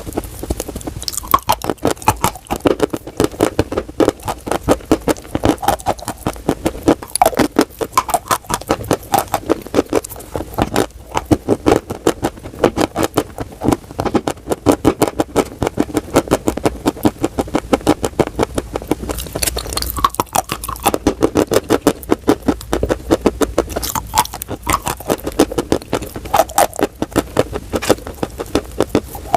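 Dry chalk being bitten and chewed: a dense run of crisp crunching crackles, many per second, throughout.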